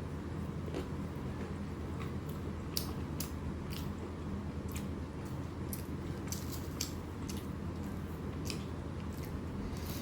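Close-miked chewing and eating of rice and curry, with irregular wet mouth clicks and smacks over a steady low hum.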